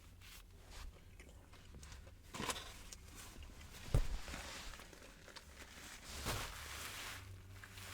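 Chewing and crunching a crispy spicy fried chicken sandwich with bacon and crispy pickle chips, with a few sharper crunches, the loudest about four seconds in.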